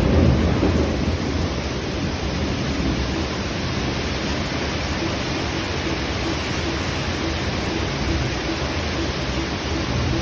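Heavy rain pouring steadily, with a low rumble under it.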